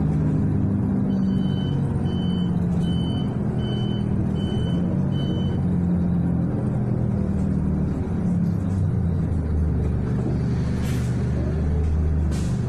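City bus engine running, heard from inside the passenger cabin as a steady low drone that swells in the second half. In the first half, a short electronic beep repeats about six times, a little under once a second, and near the end there is a brief hiss.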